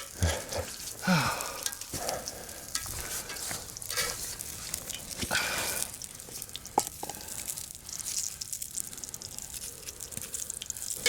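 Bread toasting on a hot cooking surface, sizzling with a steady crackle and scattered small clicks and knocks.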